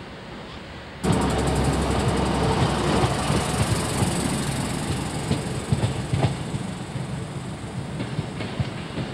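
Class 150 Sprinter diesel multiple unit moving along the platform: a loud, steady rumble with a few sharp wheel clicks over rail joints, beginning abruptly about a second in and easing off slightly toward the end.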